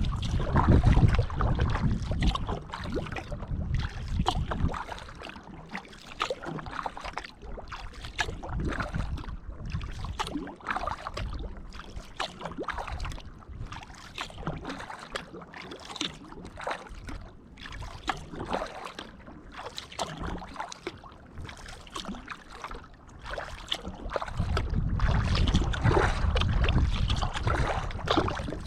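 Kayak paddle strokes dipping into and splashing lake water, in a steady run of small splashes and drips. Wind rumbles on the microphone for the first few seconds and again near the end.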